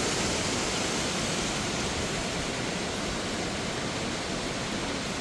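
Steady rush of a cascading waterfall, water pouring and splashing over rocks.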